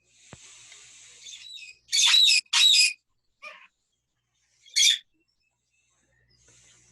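Pet parrots squawking: a soft hiss at first, then two loud harsh squawks in quick succession about two seconds in, a short softer call, and one more squawk near five seconds.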